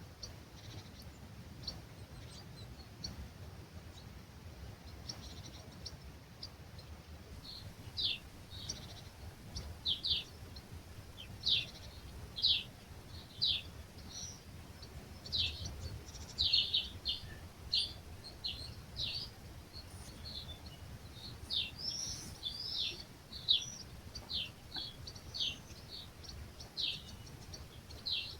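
Small birds chirping at dawn in an olive grove: short, high, quickly falling chirps, sparse at first and coming much more often from about eight seconds in, over a low rumble of breeze.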